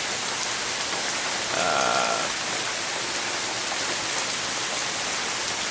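Heavy storm rain, a steady dense hiss, with a brief faint tone about two seconds in.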